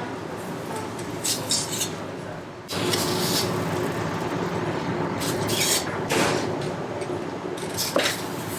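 Commercial kitchen noise: a steady machine hum steps up louder about three seconds in. Over it come several short clattering scrapes and a sharp knock near the end.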